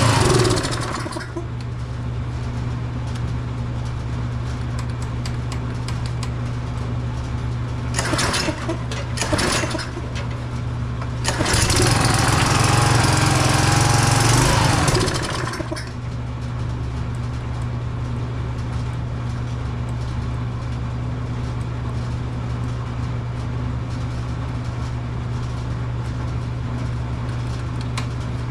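Tecumseh small engine on a Craftsman pressure washer running steadily. It goes louder and hissier briefly at the start, about eight seconds in, and again from about eleven to fifteen seconds in.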